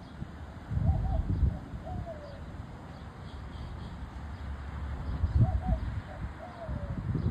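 A bird calls twice, each time a short low phrase of two quick notes and then a falling note, over a low rumble.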